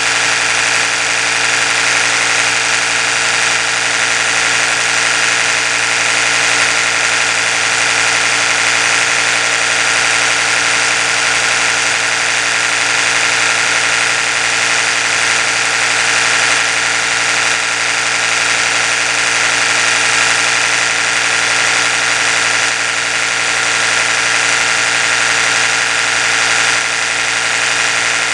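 Oral-B electric toothbrush running steadily, its small motor giving an even, unbroken buzz with a bright, high hum.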